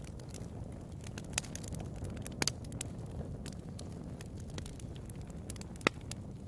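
Wood fire burning in a fireplace, crackling with scattered sharp pops over a low steady rumble, one louder pop near the end.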